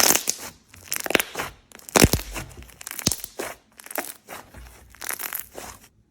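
Slime being squeezed and pressed by hand close to the microphone, giving irregular crackling and crunching pops. It cuts off suddenly near the end.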